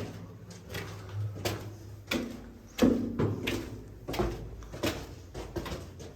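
Footsteps climbing stairs: evenly spaced steps about every two-thirds of a second.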